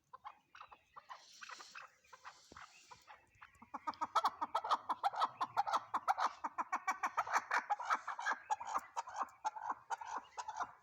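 Chukar partridge calling: a few soft scattered notes, then from about four seconds in a loud, rapid run of repeated clucking notes, about six a second.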